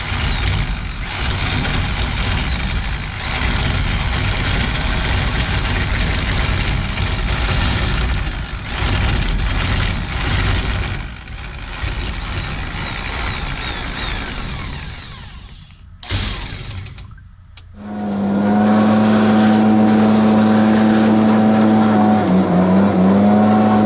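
Backpack leaf blower blowing leftover feed, dust and feathers out of poultry feeder pans: a loud rushing blast for about sixteen seconds, then after a brief break a steady high engine tone from the blower, dipping in pitch for a moment near the end.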